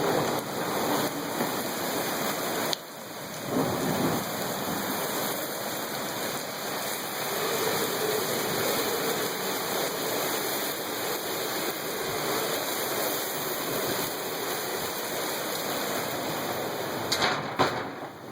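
Heavy rain driven by squally wind, a steady dense rush of rain with wind. It dips briefly about three seconds in, and two sharp louder bursts come near the end.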